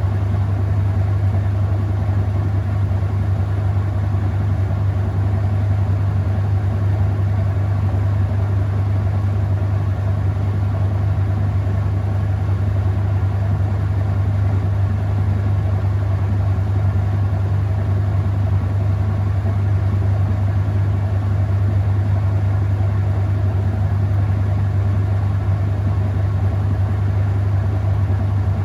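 Whirlpool top-load washing machine in its final spin, drum and motor running with a steady low hum.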